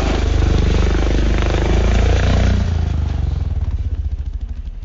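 Pit bike engine running on throttle. About two and a half seconds in it eases off and fades to a slower, pulsing run in which the single firing strokes can be heard.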